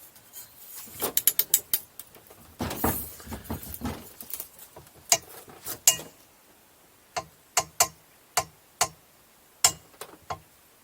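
Metal tools and engine parts clinking and knocking: a quick run of sharp clicks, a short scraping rustle, then single clinks every half second or so.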